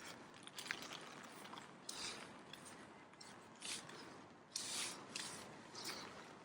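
Footsteps on wet ground, a soft squelching scuff about once a second, over a steady hiss of rain.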